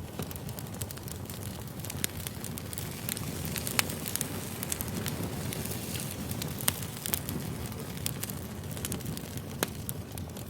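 Campfire burning: wood crackling with frequent sharp pops over a steady low rumble of flames.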